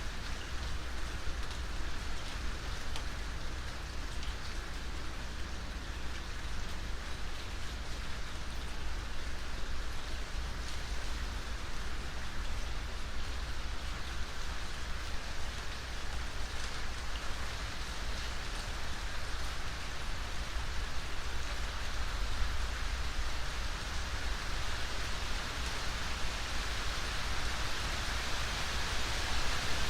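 Steady rain falling: a dense, even hiss with a low rumble underneath, the hiss growing a little brighter near the end.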